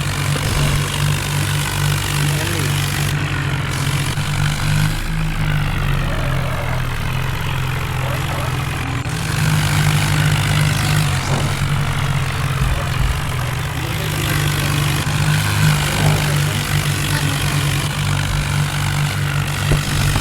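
Diesel tractor engine running steadily, a little louder from about nine seconds in.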